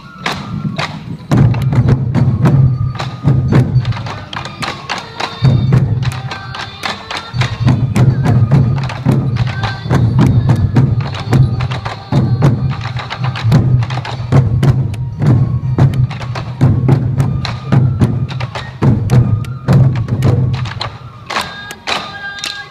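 Sansa odori festival music: a troupe of taiko drums beaten together in a fast, driving rhythm, with held flute-like tones above.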